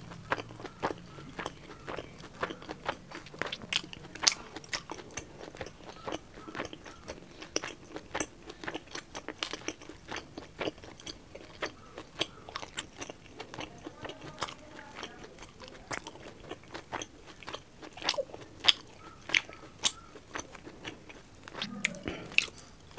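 Close-miked chewing of a mouthful of rice and curry: a steady run of wet mouth smacks and clicks, several a second.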